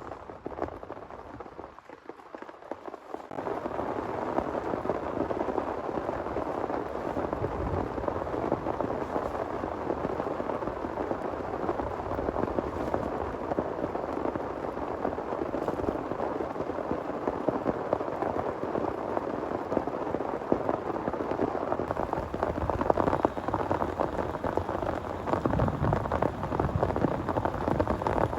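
Heavy rain falling steadily, stepping up suddenly to a dense downpour about three seconds in, with a low rumble near the end.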